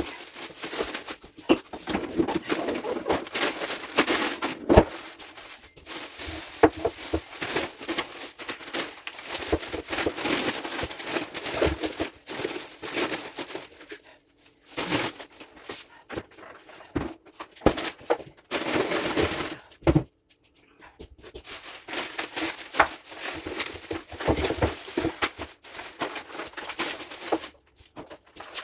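Groceries being handled and put away: packaging rustling and crinkling with many scattered knocks and clicks of items being set down, broken by a few short pauses.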